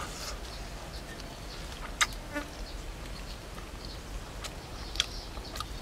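A person chewing grilled pork with mouth open, a few sharp smacks and clicks about two seconds in and again near the end, over faint insect buzzing.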